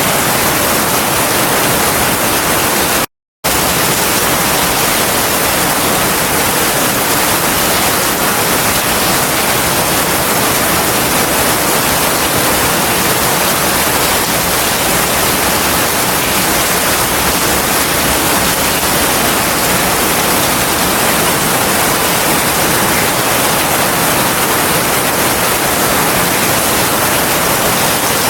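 Heavy rain falling as a steady, dense hiss, with no thunder heard; the sound cuts out for a split second about three seconds in.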